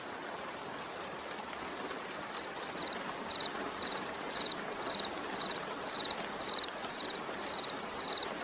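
Steady rain, with a cricket chirping about twice a second from about three seconds in.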